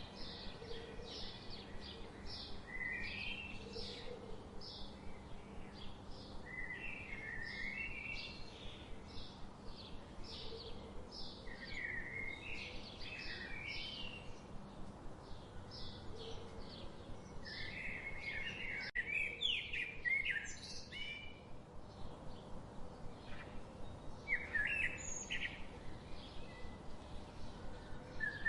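Songbirds chirping and singing in a forest chorus: rapid short repeated notes, with busier bursts of song about two-thirds of the way in and near the end, over a faint steady background hiss.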